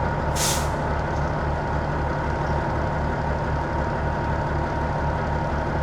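Peterbilt 379 diesel engine idling steadily, heard from inside the cab, with one short hiss about half a second in.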